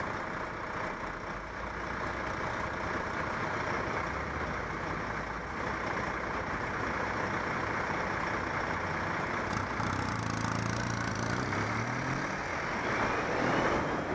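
Street traffic heard from a moving bicycle: a steady rush of traffic and wind noise, with a heavy vehicle's engine running close by from about ten seconds in.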